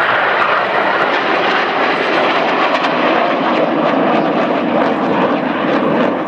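Loud, steady jet roar of Northrop F-5E Tiger II fighters with twin J85 turbojets flying by in display formation.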